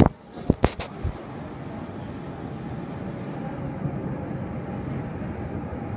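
RER B suburban train (a Z 8100 MI79 unit in front) approaching through the tunnel: a steady rumble with a faint steady whine, slowly growing louder. A few sharp clicks in the first second.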